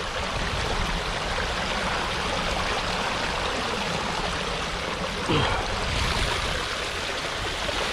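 Swollen creek water running steadily, high and fast after heavy rain.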